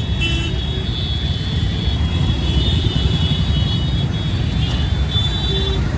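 Steady low rumble of heavy traffic, with faint high-pitched tones over it, the longest from about two to four seconds in.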